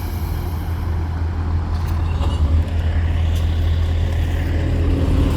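Heavy truck engine rumbling as it drives past on the road, getting steadily louder as it approaches.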